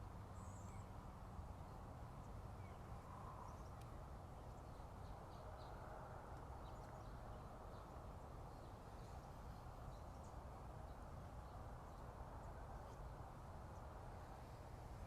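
Faint, scattered short bird chirps and calls of morning bird song over a steady low rushing background noise.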